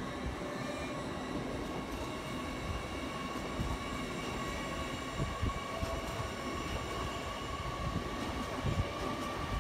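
LNER Azuma (Hitachi 800-series) passenger train moving past a platform. It makes a steady low rumble with a held whine of several thin tones, the strongest a mid-pitched note.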